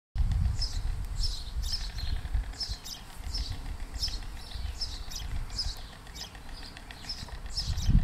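Short, high bird chirps repeated about twice a second, with wind rumbling on the microphone, strongest in the first two seconds.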